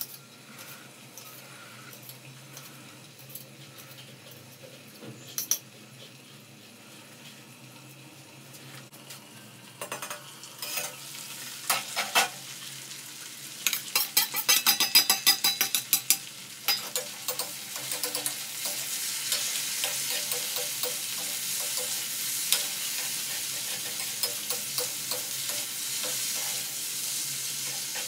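Potatoes frying in oil in a steel kadhai: a steady sizzle that builds over the second half, with a metal spoon clinking and scraping against the pan as they are stirred. Before that, a quick run of metal-on-metal tapping as chopped green chillies are scraped off a steel plate into the pan, after a few faint knife clicks on the plate.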